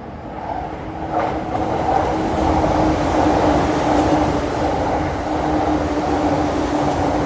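Doctor Yellow Shinkansen inspection train running past. Its noise builds over the first couple of seconds into a steady rushing sound, with a steady hum underneath.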